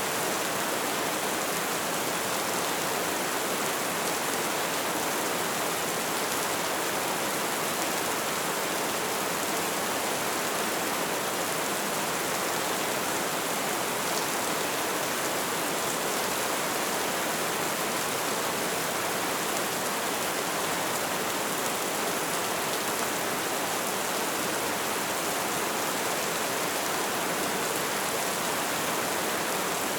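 Light rain falling steadily, an even hiss with faint patter of drops.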